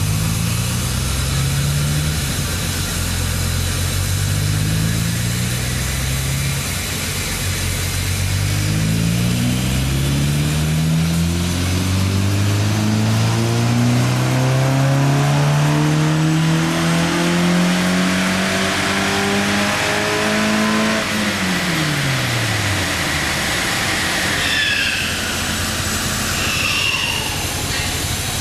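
VW Mk1 Rabbit GTI's 8-valve four-cylinder engine on a chassis dyno, accelerating hard through the gears. Revs climb and drop back at each shift, then climb steadily for about nine seconds in the final gear. About 21 seconds in, the throttle closes and the revs fall away quickly, and high squeals are heard near the end as the wheels and dyno rollers slow.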